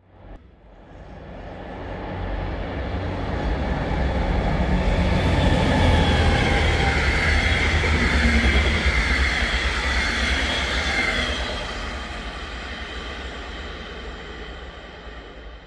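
Südostbayernbahn Class 245 diesel-electric locomotive and its double-deck coaches passing by, with a heavy low rumble. The sound builds up, is loudest in the middle as the train goes past, then fades as it pulls away.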